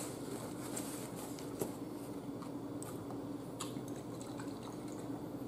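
Faint eating and handling noises: scattered soft clicks and wet smacks of chewing, with the rustle of a paper napkin as hands are wiped, over a steady low hum.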